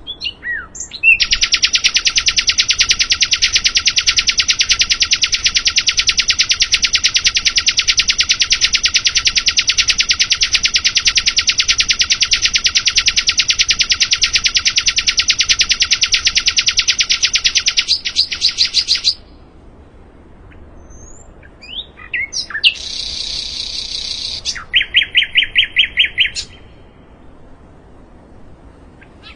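A sikatan londo songbird singing: a long, very fast, even trill held for about seventeen seconds. After a short pause come a few quick chirps, a buzzy phrase and a shorter rapid trill.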